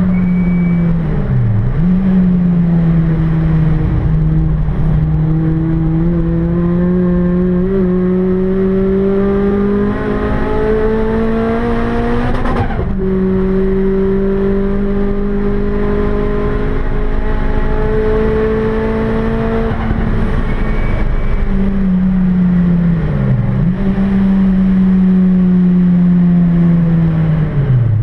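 Rotrex C30-supercharged Toyota Celica 2ZZ-GE four-cylinder engine heard from inside the cabin under hard track driving. The engine note climbs steadily, drops sharply at an upshift about halfway through, then falls over the last several seconds as the car slows, with brief dips as it changes down.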